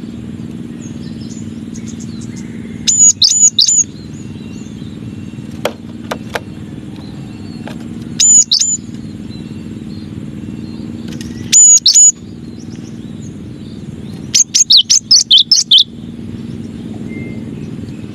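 Cinereous tit (gelatik batu) singing loud, high, clear whistled notes. They come in short phrases of two or three, then a quick run of about seven notes near the end, over a steady low hum.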